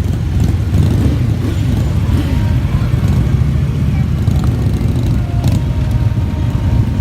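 Motorcycle engines running in a steady low rumble, with people talking over them.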